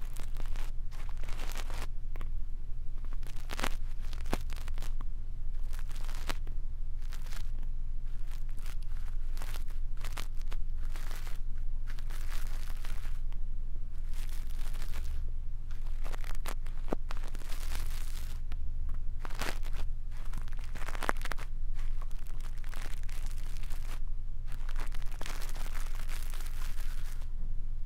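A brush's bristles sweeping and scratching over an ear microphone in ASMR ear cleaning: irregular, crunchy rustling strokes over a steady low hum.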